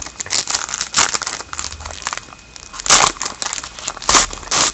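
Trading-card pack wrapper crinkling and cards rustling as they are handled, with a few louder crinkles about a second in, near three seconds and just after four seconds.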